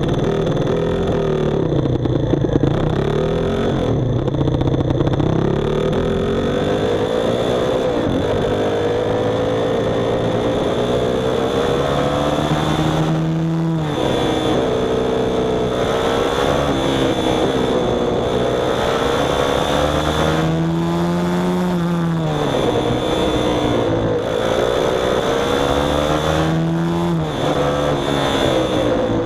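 A small engine running and revving, its pitch rising and falling over and over, with several sharp drops in revs that climb back up.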